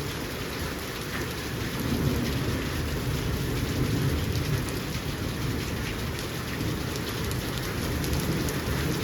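Heavy rain falling steadily, an even hiss with a strong low rumble beneath it.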